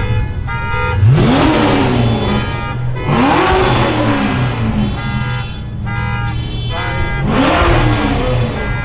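A car alarm sounding its cycling tones, while a car's engine is revved three times, each rev rising and falling in pitch: about a second in, about three seconds in, and near the end.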